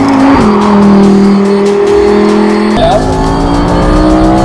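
Lamborghini Huracán's naturally aspirated V10 running hard under acceleration, heard in spliced takes. Its pitch holds steady for a couple of seconds, then climbs steadily as the engine revs up.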